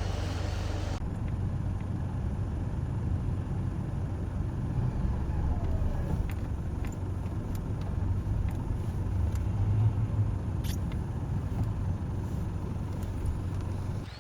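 Mitsubishi L200 pickup engine running steadily, a low drone with a few faint clicks in the second half.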